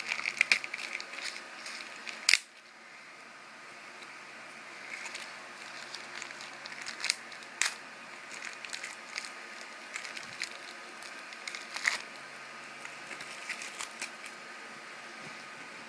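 Candy wrapper crinkling and crackling: dense crackles with one sharp crack about two seconds in, then scattered clicks over a quiet background.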